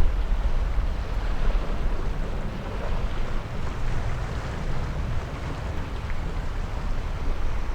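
Jet aircraft engines giving a deep, steady rumble that slowly fades, typical of an airliner taking off and climbing away.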